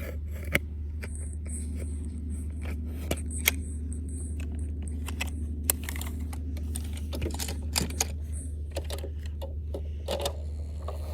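Plastic toy garbage truck being handled, with irregular clicks and knocks as its parts are moved and it is set down, over a steady low hum.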